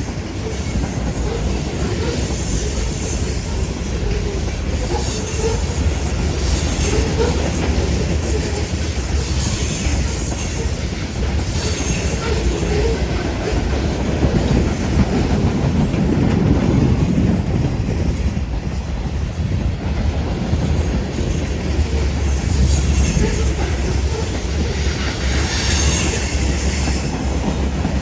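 Railroad cars rolling past, with a steady low rumble, wheels clacking over the rail, and high squeals from the wheels that come and go every few seconds.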